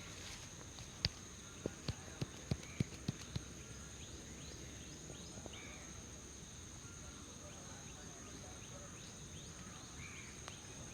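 Sharp hand taps of a head massage: one about a second in, then a quick run of about six at roughly three a second, over a steady high insect-like drone.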